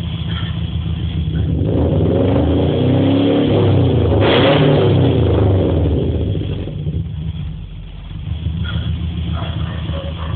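Exhaust of a 2008 Subaru Impreza 2.0R-S flat-four boxer engine, fitted with unequal-length headers and a full aftermarket exhaust, idling and then revved once. The note climbs to a peak in the middle and falls back to idle.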